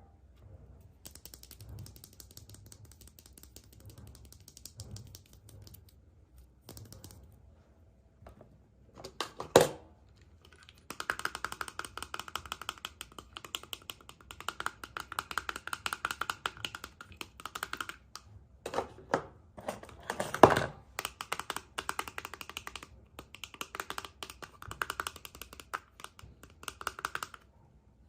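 Hands unwrapping and opening surprise eggs: long runs of rapid crinkling clicks of foil and plastic wrapping. There is a sharp snap about ten seconds in and a louder one about twenty seconds in.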